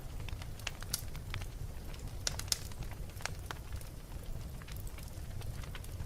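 Wood fire burning in a fireplace: irregular sharp crackles and pops scattered over a steady low rumble of the flames, with a few louder pops about two and a half seconds in.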